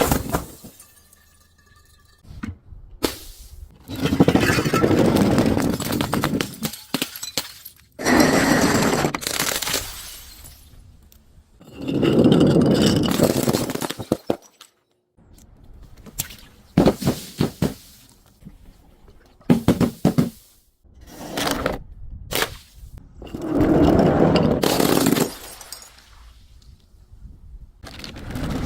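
Glass bottles breaking and being crushed: a series of crunching, cracking bursts about one to two seconds long, with short sharp cracks between them.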